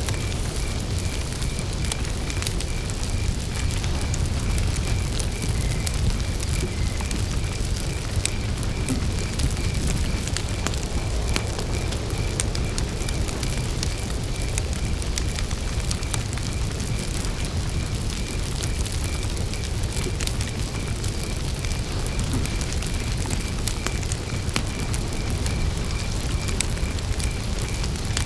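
Wood campfire burning steadily, with a low rumble and frequent small crackles and pops. Behind it runs a faint, evenly pulsed high chirping that never stops.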